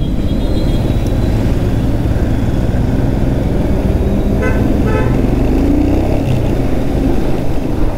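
Royal Enfield Himalayan's single-cylinder engine running at low speed in traffic, with a steady low rumble and road noise. A vehicle horn toots twice in quick succession about halfway through.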